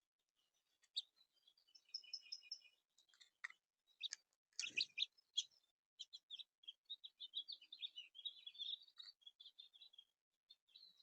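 Small backyard songbirds chirping, with quick runs of repeated notes and a fast twittering trill in the second half. About halfway through there is a single soft knock.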